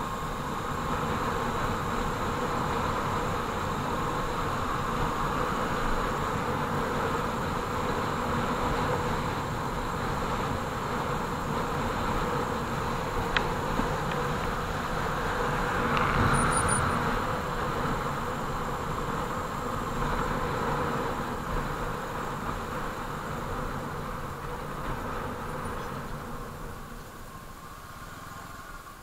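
Bajaj Avenger 220 motorcycle's single-cylinder engine buzzing steadily on the move, heard through a helmet-mounted action camera. It swells briefly about halfway through and fades over the last few seconds.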